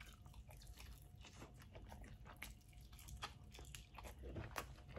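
Faint chewing: a man eating, with soft scattered crunches and mouth clicks that get a little louder in the last couple of seconds.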